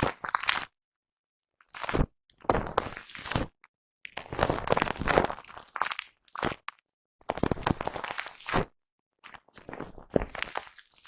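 Brush strokes rubbing across a foam microphone windscreen, close-up crunchy scratching in about six separate strokes of a fraction of a second to two seconds each, cutting off sharply into silence between strokes.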